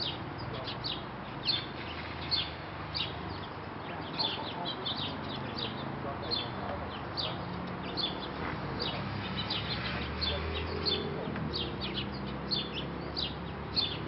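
Small birds chirping in short, high, quick notes, about two or three a second, over a low steady hum.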